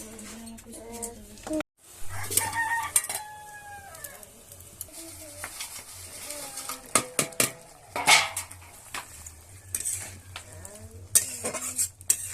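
Metal cooking utensils clinking and scraping in a pot, a series of sharp knocks and taps, with chickens calling in the background. The sound cuts out briefly near the start.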